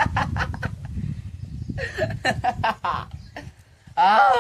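People stifling laughter: a run of short, breathy snickers, then a brief voiced sound near the end.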